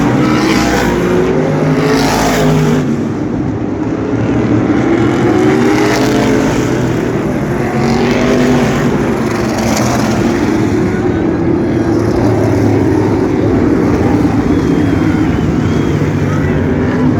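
Several asphalt sprint car engines running together as the cars circle the oval, their pitches wavering and overlapping as cars pass by.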